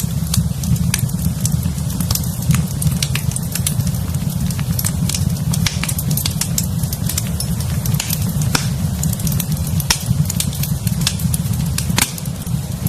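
Wood fire in a fireplace crackling: frequent irregular sharp pops and snaps over a steady low rumble of the flames, with one louder pop near the end.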